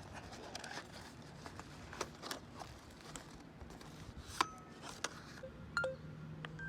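Small objects being handled: scattered clicks and knocks, a few of them with a brief ringing tone.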